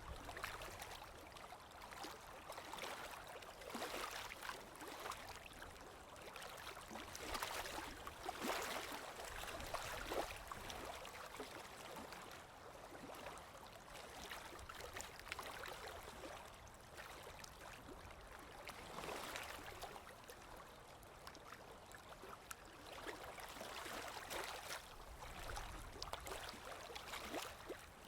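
Sea waves washing in: a hiss of water that swells and fades every few seconds.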